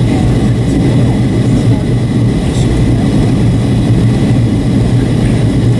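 Steady cabin noise inside a Boeing 757-300 airliner: engine and air noise, strongest low down, with a faint steady high whine.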